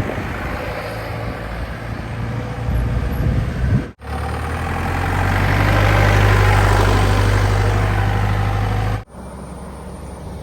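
Off-road jeep's engine running, in three short clips joined by abrupt cuts; in the middle one the engine sound grows louder to a peak about six seconds in, then eases off.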